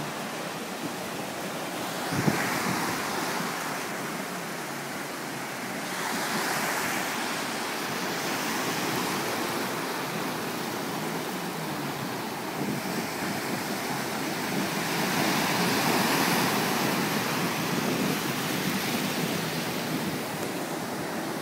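Sea surf washing with wind buffeting the microphone, in swells that rise and fall every few seconds.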